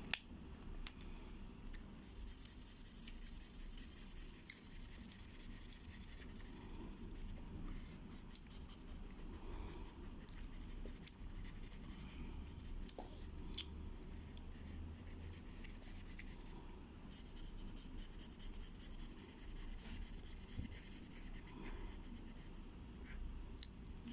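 Colouring strokes scratching back and forth on paper, a fast rubbing hiss that starts about two seconds in, runs in long stretches with a few short pauses, and stops a couple of seconds before the end. A few light taps fall between the strokes.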